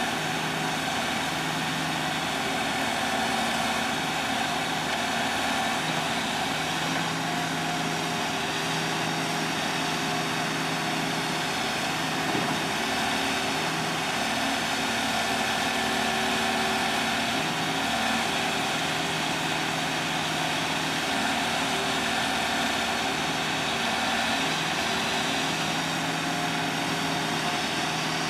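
An engine running steadily at idle: a constant hum that holds the same pitch and level throughout.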